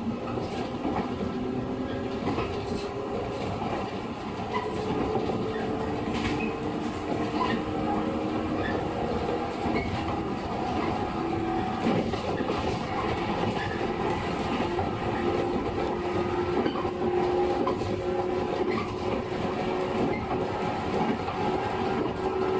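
JR 115 series electric multiple unit running at speed, heard from on board: steady rumble with traction-motor and gear whine climbing slowly in pitch as the train gathers speed, and wheels clicking over rail joints.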